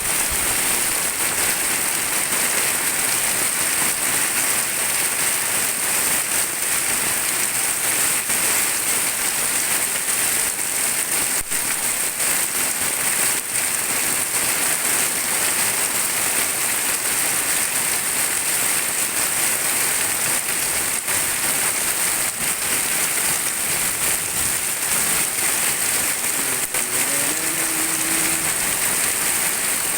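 Heavy tropical downpour, rain pouring down in a steady, dense hiss.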